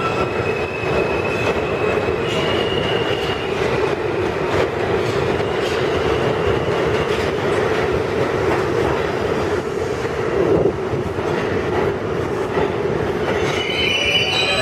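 Budd-built R32 subway train running through the station with a steady, loud rumble and clatter of wheels on rail. A high wheel squeal rings out about two seconds in, and more squealing tones rise near the end.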